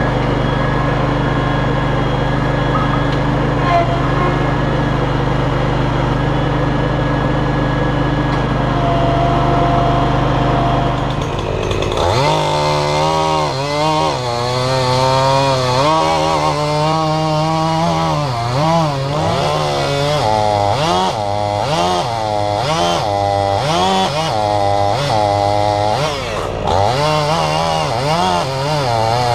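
An engine runs steadily at an even pitch. About 12 seconds in, a chainsaw takes over, revving up and bogging down again and again as it cuts through a log of soft, rotten wood.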